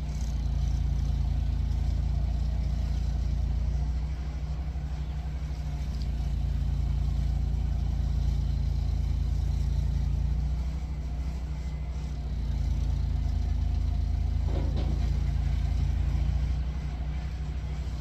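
An engine running steadily at a low, even speed, its level swelling and easing several times. A brief higher sound cuts through about fifteen seconds in.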